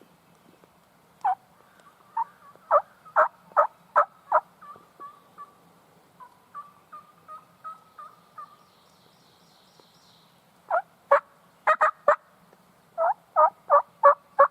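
Turkey yelps: a run of loud, evenly spaced yelps, each dropping in pitch, then a string of softer, quicker notes, then two more runs of yelps near the end.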